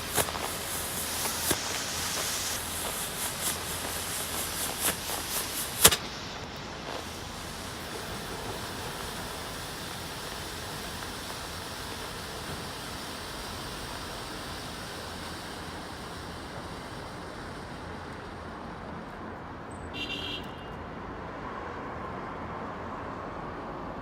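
Triple-vented smoke firework hissing as it pours out coloured smoke, with small crackles, cutting off sharply about six seconds in. Then steady traffic-like background noise, with a brief high-pitched sound near the end.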